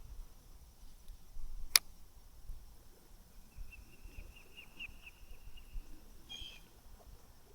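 A single sharp click about two seconds in, then a faint bird call: a quick run of short, high chirps lasting a few seconds, with one louder chirp near the end.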